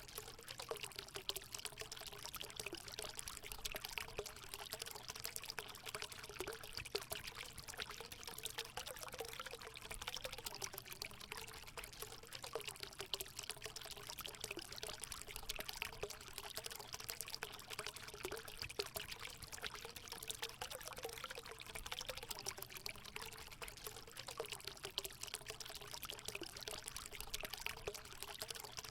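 Water running and splashing steadily into a hot spring pool, a continuous pouring, trickling sound with a faint burbling undertone.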